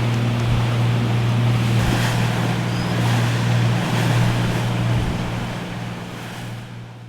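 Motorboat engine running underway, a steady low hum, with rushing water and wind buffeting the microphone; it all fades out near the end.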